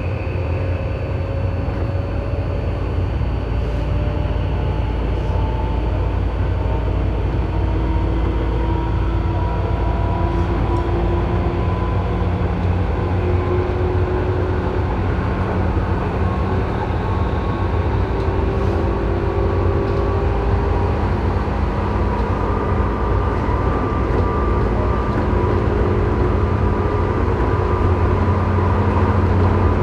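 Tobu 9000 series electric train heard from directly above its armature chopper control: the chopper's abnormal high-pitched whine, several tones drifting slowly upward in pitch over a steady low hum and wheel-on-rail rumble, as the train gathers speed.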